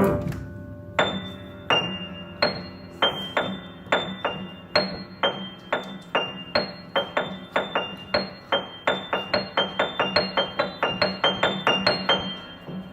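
Piano playing a string of short single notes high in the treble over a held low note, after a loud chord fades at the start; the high notes come faster and closer together toward the end.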